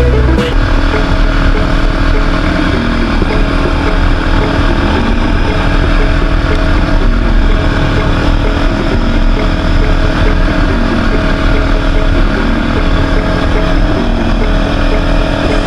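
Quad bike (ATV) engine running steadily while riding, a loud engine drone with rough noise over it.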